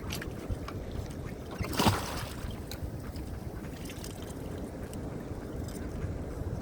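Steady wind and choppy ocean water against a kayak, with one short louder splash about two seconds in.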